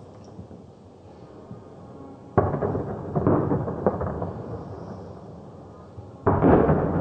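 Fireworks bursting: two sudden bangs, about two and a half and six seconds in, the second louder, each followed by a crackling tail that fades over a few seconds.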